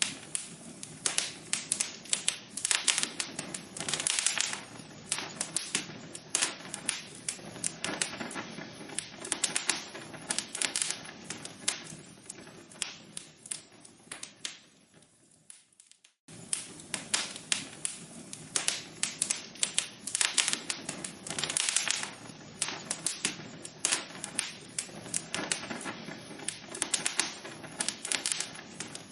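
Burning wood logs crackling and popping in a fireplace: a dense, irregular stream of sharp snaps over a low hiss. About halfway through, the crackling thins and fades, drops out for a moment, then starts again at full strength as the loop restarts.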